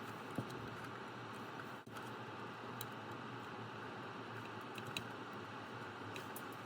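Steady low hiss with a few faint, light clicks and taps as small tools and wire parts are handled during bench soldering work.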